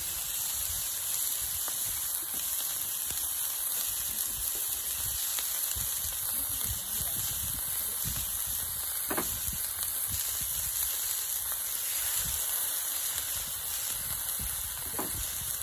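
Pork belly frying on an iron griddle over a wood fire: a steady sizzling hiss with a few faint crackles.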